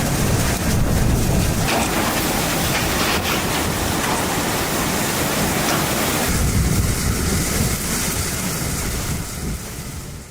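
Strong storm wind and heavy rain buffeting the microphone, with the texture shifting a couple of times and fading near the end.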